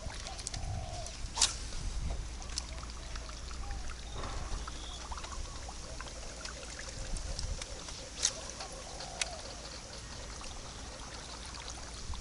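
Water trickling and lapping around a small boat, with a few sharp knocks and clicks.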